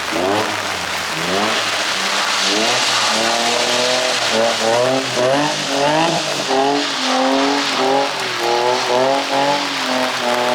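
A car engine revving up and down in quick, repeated pulls as the car drifts on a wet surface, over a steady hiss of tyres on wet pavement.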